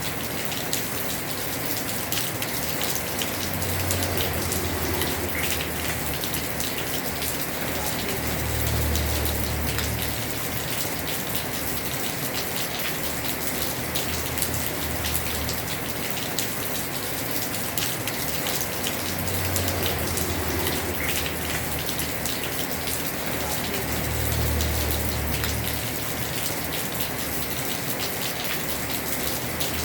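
Heavy rain pouring steadily onto a house roof, a dense hiss of drops with fine patters. A low rumble swells up and fades away several times.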